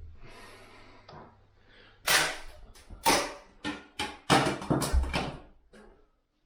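A quick run of sharp knocks and cracks, about eight in three and a half seconds, some with a short ringing tone.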